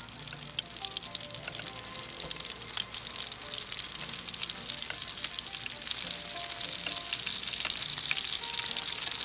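Flour-coated spare ribs deep-frying in hot oil in an electric skillet at medium-high heat: a dense, steady crackling sizzle that grows a little louder toward the end.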